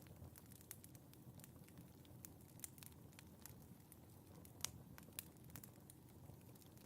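Fire burning in a fireplace, crackling softly with scattered sharp pops over a low, steady rumble of the flames. Two louder pops come about two-thirds of the way through.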